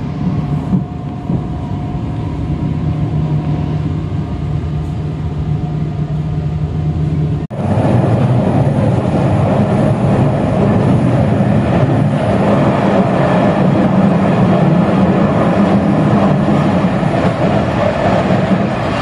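Passenger train running, heard from inside the carriage: a steady rumble with a low hum from the wheels and running gear. About halfway through the sound cuts off abruptly and comes back louder.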